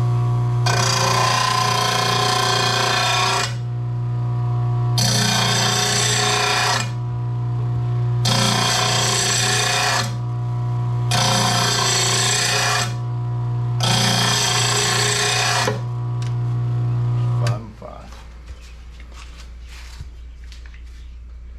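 RBG 712 mower blade sharpener's motor running steadily while a steel mower blade is ground in five separate passes, each a loud grind lasting two to three seconds. The motor shuts off about three-quarters of the way in, leaving a few faint clicks.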